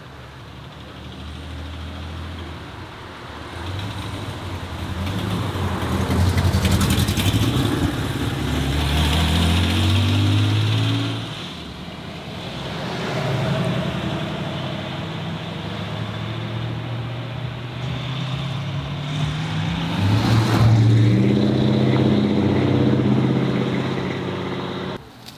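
Car engines accelerating away one after another as cars leave a car show, each pull rising in pitch. The loudest pulls come in the middle and again near the end.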